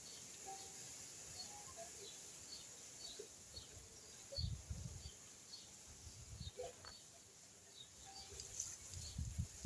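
Faint outdoor ambience with small birds giving short, high chirps scattered throughout, over a steady high hiss, and a few low thumps about halfway and near the end.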